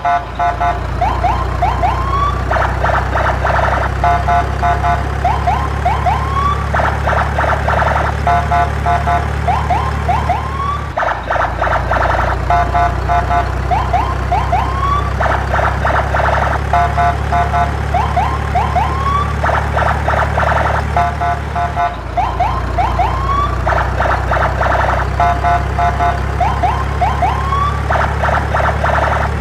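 Looped electronic siren and alarm-style sound effects over a steady low drone: short rising whoops alternate with fast pulsing beeps, and the whole sequence repeats about every eleven seconds.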